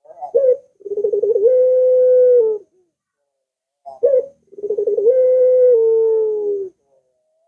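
Puter (Barbary dove) cooing twice. Each call is a short rising note followed by a long, wavering coo of about two seconds; the second coo drops slightly in pitch partway through.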